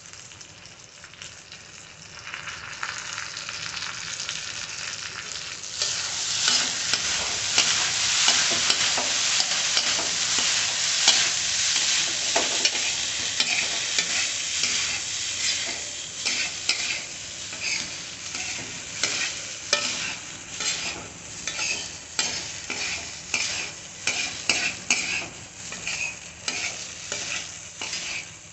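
Flattened rice sizzling in a hot kadhai as a perforated steel skimmer stirs and tosses it. The sizzle swells loud about six seconds in. In the second half the skimmer scrapes and turns the food in strokes about once a second.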